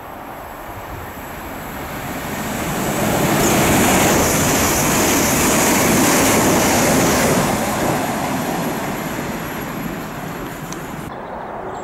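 Electric multiple-unit passenger train running through the station at speed close to the platform: a rushing roar of wheels on rail and air that builds, peaks for a few seconds and fades as it goes away.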